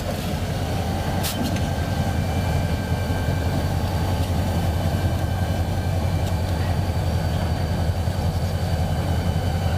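EMD diesel locomotives, a pair of SD40-2s and an SD9, running with a steady low engine drone while the locomotive bell rings over it.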